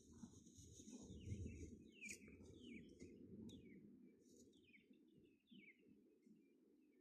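Birds chirping faintly: a scatter of short calls, each dropping in pitch, over a low steady rumble.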